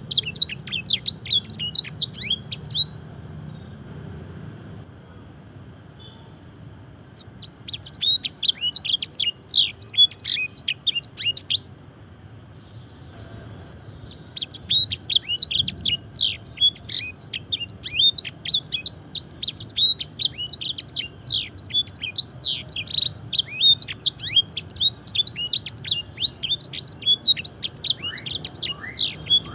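Domestic canary singing long, rapid trills of steeply falling high notes, in the blackthroat and Sanger style used as a training song for young canaries. The song comes in three bouts, with a pause after about three seconds and another near the middle.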